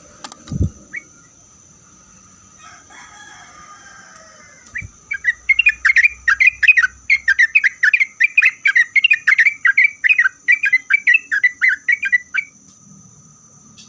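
Sooty-headed bulbul (trucuk) singing a fast run of repeated chirping notes, about four a second, starting about five seconds in and lasting some seven seconds. A single low thump comes just before, under a second in.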